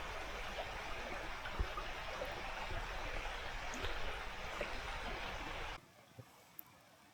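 River water flowing with a steady rushing sound, a few faint ticks over it. It cuts off abruptly near the end, leaving near silence.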